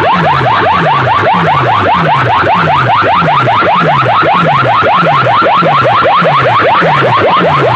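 Electronic siren-like effect played loudly over a DJ sound system: fast rising chirps, about six a second, over a lower falling tone that repeats about twice a second.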